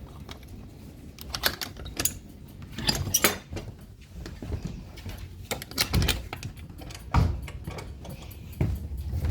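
Irregular clicks and light clatter of weather radios being handled, over a low rumble.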